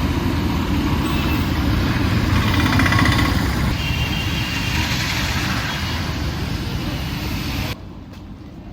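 Busy road traffic: vehicle engines and tyres with a heavy low rumble. It cuts off suddenly near the end, leaving quieter street sound.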